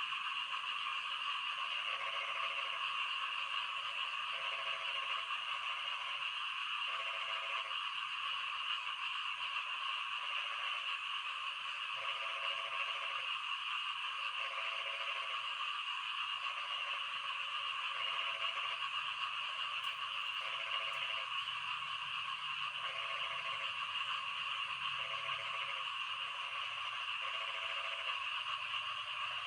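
Frogs calling: a dense, steady chorus, with one deeper croak repeating about once a second.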